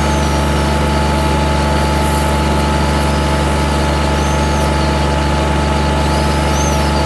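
Compact utility tractor's engine running steadily at an even speed, with no change in pitch.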